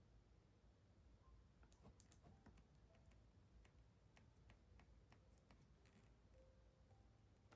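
Faint typing on a computer keyboard: irregular, scattered key clicks starting a little under two seconds in.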